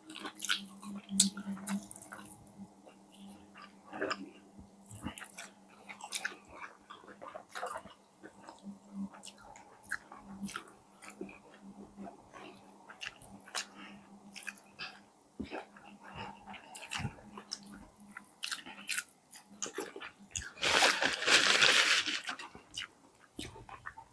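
Close-miked eating of fried chicken: chewing and biting with many small crunchy, wet mouth clicks. Near the end comes a louder burst of hiss-like noise lasting under two seconds.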